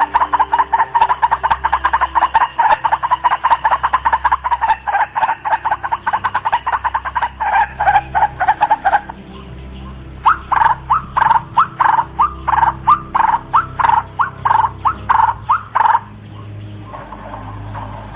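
White-breasted waterhen calling: a long, fast run of repeated harsh notes, a pause of about a second, then a second run of slower, separate notes that stops about two seconds before the end. A steady low hum lies underneath.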